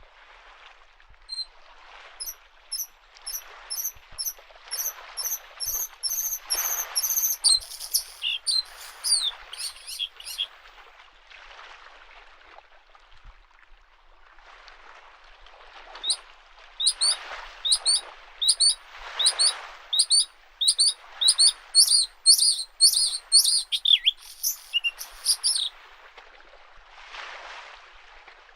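Bluethroat singing two long phrases of rapidly repeated high notes that speed up and grow louder, the first starting about a second and a half in and the second just past halfway. Under the song, small lake waves lap the shore in soft washes about once a second.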